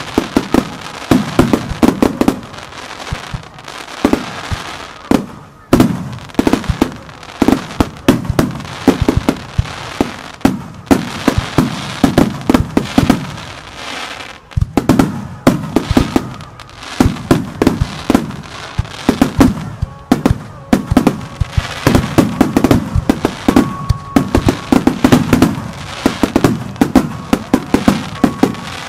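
Star mine fireworks barrage: shells bursting in rapid, continuous succession with crackling reports, the loudest bangs coming in clusters every second or two.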